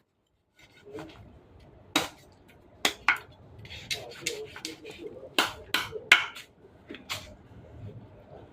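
Kitchenware clinking and knocking as things are handled: scattered sharp clicks, with louder knocks about two, three and six seconds in.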